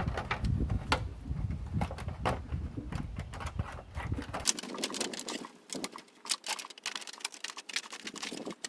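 Snips cutting thin sheet metal: a quick, irregular run of sharp clicks and crunches, denser in the second half, with a low rumble underneath that stops about halfway through.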